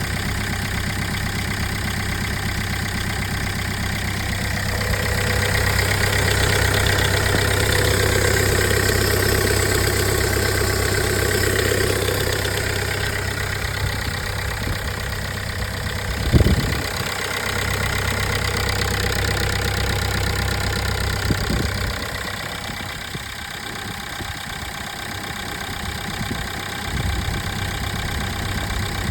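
Engine idling just after a cold start, a steady low drone. It grows louder for several seconds about five seconds in, then settles, with a sharp thump a little past halfway and a fainter one a few seconds later.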